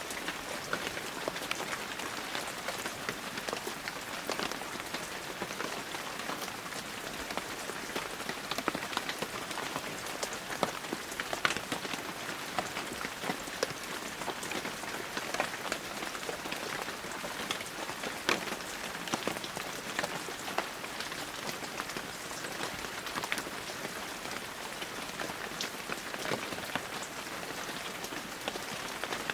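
Heavy rain falling steadily, a dense hiss of rain with many individual drops pattering on surfaces.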